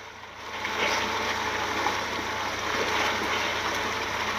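Speedboat under way: a steady rushing of motor and water that swells about half a second in and then holds.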